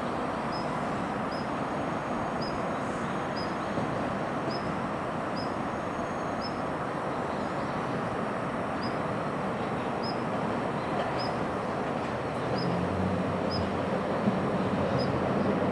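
JR Kyushu N700S shinkansen pulling away along an elevated viaduct, heard from a distance as a steady rumbling hum that grows louder, with a low drone coming in past two-thirds of the way. A short high chirp repeats about once a second throughout.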